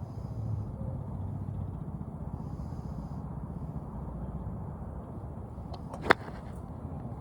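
A golf club strikes a range ball once, a single sharp crack about six seconds in, over a steady low rumble.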